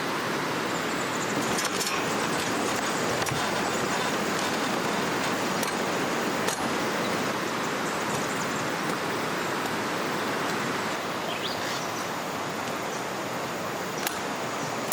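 Steady rush of flowing river water, with a few faint clicks and a brief faint high chirp about two-thirds of the way through.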